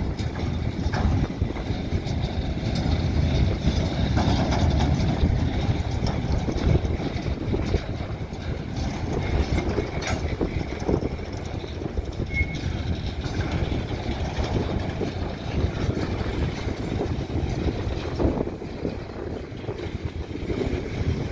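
Covered freight wagons of a freight train rolling past, their wheels rumbling steadily on the rails, with occasional knocks.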